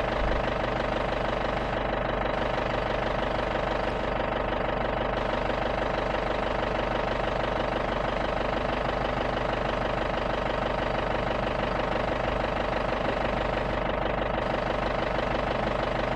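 Safari jeep's engine idling at a steady, unchanging pitch.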